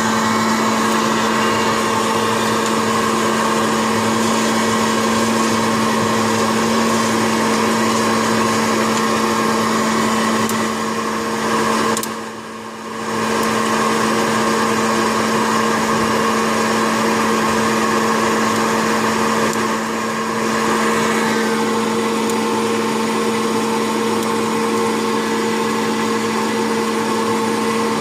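Small electric fan motors of an air-popper coffee roasting setup whirring steadily with a constant hum. The sound drops out briefly about twelve seconds in, then carries on.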